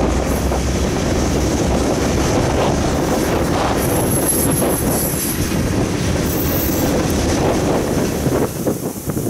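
Covered hopper cars of a freight train rolling past: a steady rumble of steel wheels on rail with clickety-clack from the rail joints. A high wheel squeal rises about four seconds in, and the sound dips near the end.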